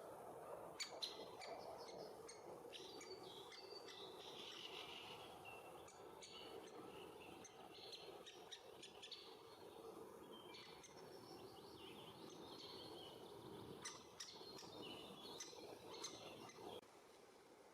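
Birds chirping and calling in quick, scattered notes, with sharp clicks among them, over a low steady hum; the sound drops away near the end.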